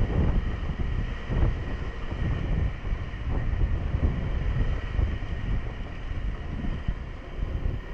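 Honda 125 cc motorcycle riding along, its engine rumbling under gusty wind buffeting on the action camera's microphone, with a thin steady whine above it.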